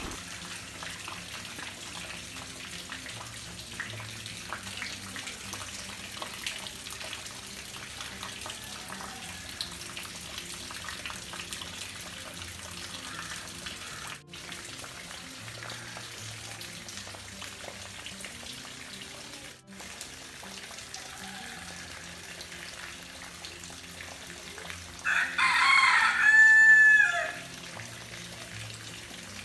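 Soft background music plays quietly. About 25 seconds in, a rooster crows once, loudly, for about two seconds, its call falling at the end.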